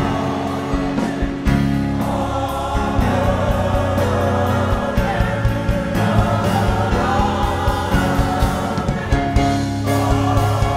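Gospel choir singing with instrumental accompaniment, bass notes and drums under the voices.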